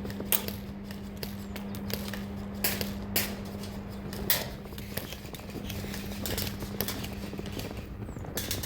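Irregular sharp clicks and knocks from an airsoft game in play, over a steady low hum.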